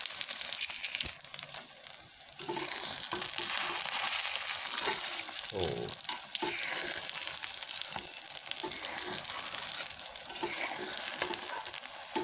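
Hot oil sizzling and crackling under a beaten-egg omelette frying in an aluminium wok. It goes quieter for a moment about a second in, then comes back strongly, with a metal spatula scraping and tapping against the pan.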